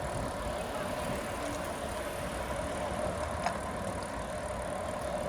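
Steady rolling and wind noise from a moving bicycle, with a single short tick about three and a half seconds in.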